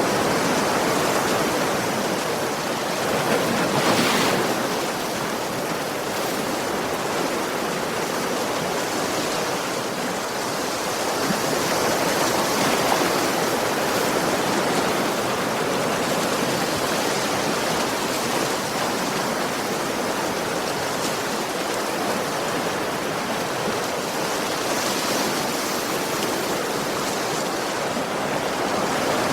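Ocean waves breaking on a beach: a steady wash of surf, swelling with a louder wave about four seconds in.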